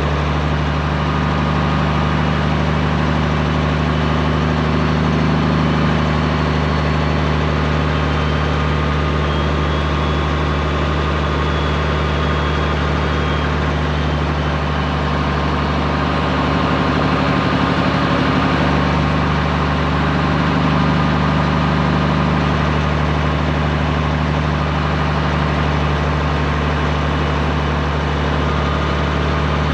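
Straight-piped Peterbilt 389's diesel engine running steadily at an even, unchanging pitch.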